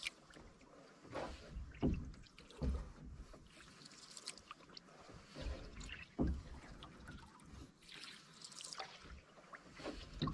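Canoe paddling on calm water: several paddle strokes a few seconds apart, each a splash with a dull low thud, with water dripping and trickling off the blade between strokes.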